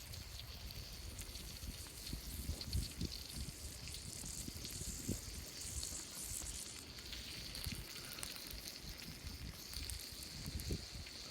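Small wood fire crackling in a mini fire pit, with an uneven low rumble of wind on the microphone.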